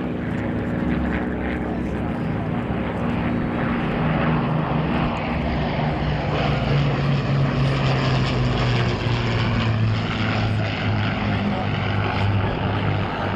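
Avro Lancaster bomber's four Rolls-Royce Merlin piston engines droning as it flies past, the engine note falling steadily in pitch as it passes.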